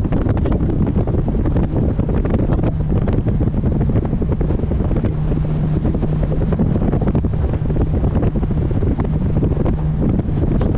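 Heavy wind buffeting the microphone on a moving boat, over the steady drone of the boat's engine; a low hum becomes steady about halfway through.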